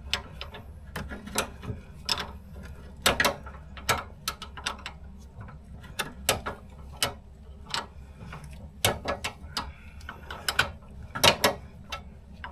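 Irregular sharp metallic clicks and knocks of hand tools and metal parts being worked while a car's fuel tank is fitted, ratchet-like in places, over a steady low hum.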